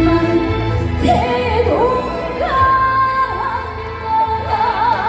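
A woman singing live with band accompaniment: her voice comes in about a second in with long held, wavering notes over a steady bass-heavy backing.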